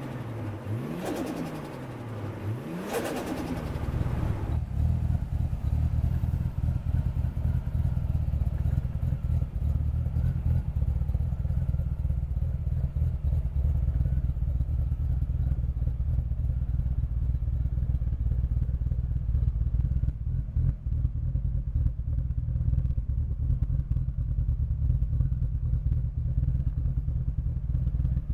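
Toyota Supra's 2JZ-GTE 3.0-litre twin-turbo straight-six, through a custom front pipe and muffler, revved twice in quick succession, then settling about four seconds in to a steady idle.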